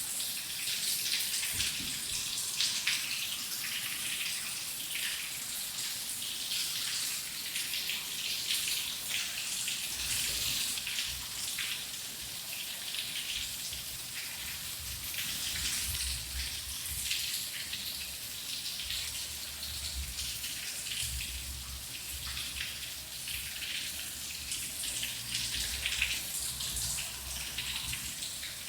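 Steady rain with a dense patter of drops. From about ten seconds in, a faint low rumble runs underneath.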